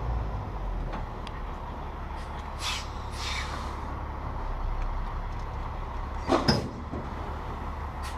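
Heavy diesel dump truck idling with a steady low rumble, with short hissing sounds about three seconds in and a louder sharp burst about six seconds in.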